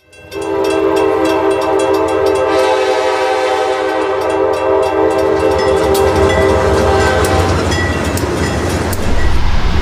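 Diesel freight locomotive's air horn sounding one long chord for about seven seconds, then stopping, over the rumble of the passing train and clicks of wheels on the rail. The low rumble grows louder near the end.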